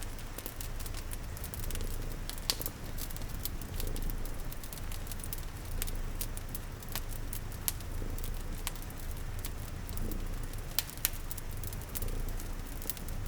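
Crackling fireplace with frequent sharp pops and snaps, over a steady hiss of rain and the low, continuous rumble of a cat purring.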